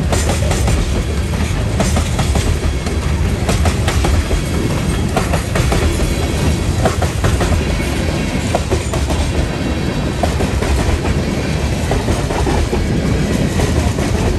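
Freight train of tank cars rolling past close by: a loud, steady rumble of steel wheels on rail, broken by frequent sharp clicks and knocks as the wheels cross rail joints.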